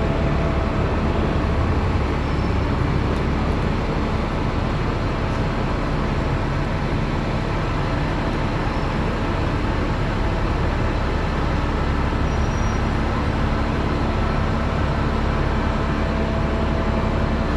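Steady low rumbling noise with a faint steady tone above it, unchanging throughout.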